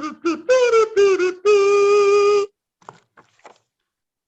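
A buzzy, pitched tooting phrase: a few short notes, then one long held note that stops about two and a half seconds in, followed by a few faint clicks.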